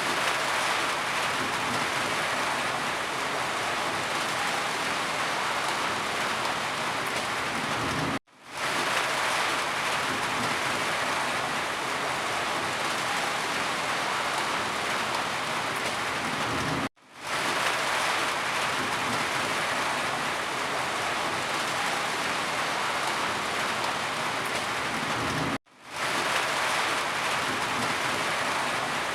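Steady rain falling as a dense, even hiss. Three times it cuts out for an instant and fades quickly back in.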